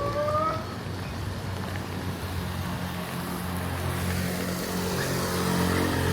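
Rainy street traffic. A motor vehicle's engine runs close by with a steady low hum that swells toward the end, over an even hiss of rain. A short rising tone sounds right at the start.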